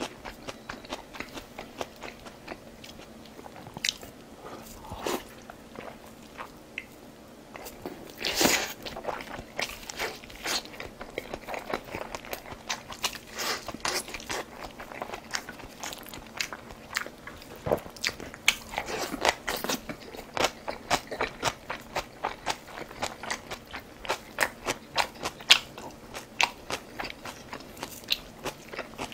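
Close-miked eating: a person biting and chewing food, a run of crunchy, wet mouth clicks that becomes busier and more regular about a third of the way in, with one louder noisy burst shortly before that.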